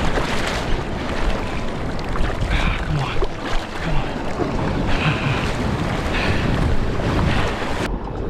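Wind buffeting the microphone over sea water sloshing around a kayak, a steady rough noise heaviest in the low end.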